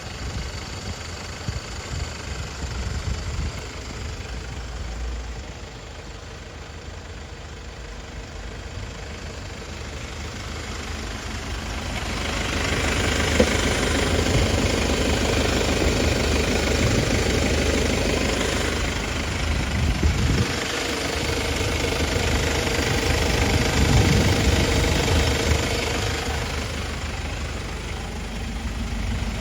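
Mercedes-Benz Sprinter 316 CDI's four-cylinder diesel engine idling steadily. It grows louder from about twelve seconds in and eases off again near the end.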